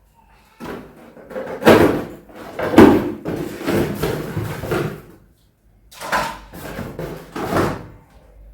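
Grocery items and their packaging being handled: rustling with knocks and bumps, in two stretches with a short pause between.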